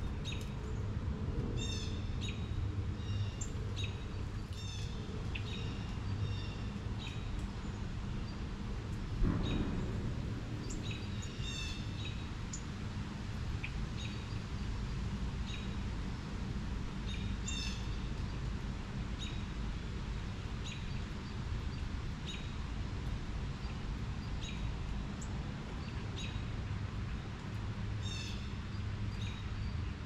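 Wild birds chirping: short calls scattered irregularly throughout over a steady low background rumble. A single brief thump comes about nine seconds in.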